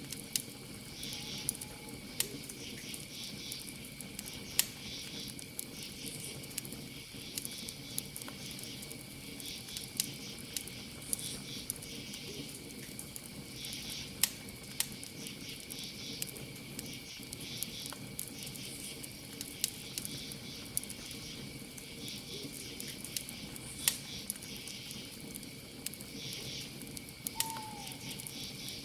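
Campfire crackling with frequent sharp pops, over a steady high trill and pulsing chirps of crickets. A brief falling call sounds near the end.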